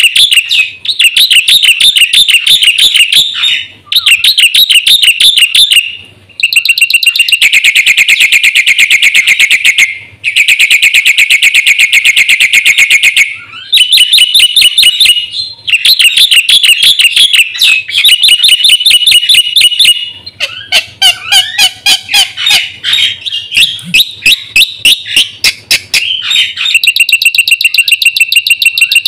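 Black-winged myna (jalak putih) singing loudly and continuously in fast, repeated chirping and trilling phrases, in bouts of a few seconds with brief breaks between them.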